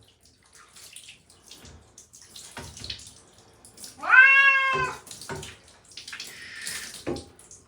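Domestic cat giving one long, drawn-out distressed meow about four seconds in while being bathed, with small water splashes around it and a short pour of water near the end.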